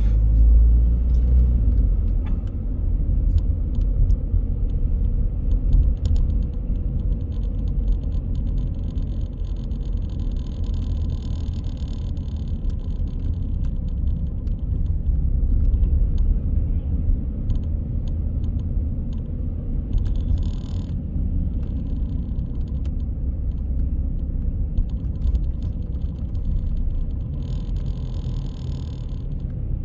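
Steady low rumble of a car being driven, engine and road noise heard from inside the car, with a few brief hissing swells about ten seconds in, around twenty seconds and near the end.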